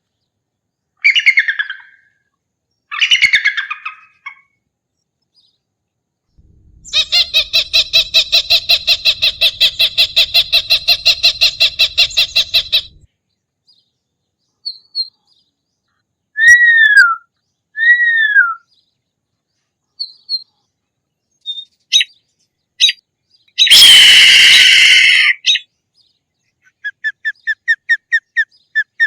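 A series of hawk calls separated by silent gaps: two short harsh screams, then a rapid chattering series of about seven notes a second lasting several seconds, two downslurred whistles, a few short chips, and another loud harsh scream. A quick run of short notes starts near the end.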